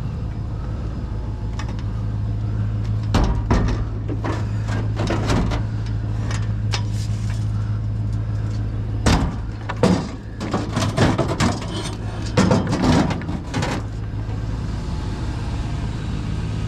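Vehicle engine running with a steady low hum, heard from inside the cab, with bursts of knocks and rattles from loose things inside, about three seconds in and again from about nine seconds in.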